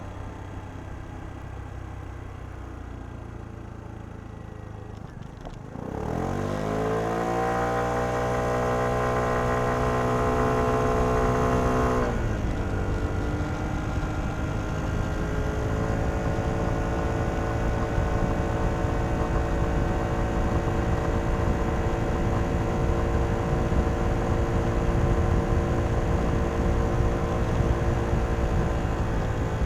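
Kymco Downtown 125i scooter's single-cylinder four-stroke engine through its stock exhaust, heard from onboard. It runs low and quiet at first. About six seconds in the throttle opens and the revs climb quickly, then hold high and level as the automatic transmission takes up the drive. Around halfway they drop a little and stay steady at cruising speed.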